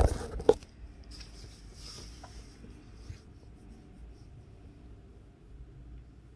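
Handling noise on the recording device: two sharp knocks about half a second apart, then a couple of seconds of scraping and rubbing, over a low steady wind rumble.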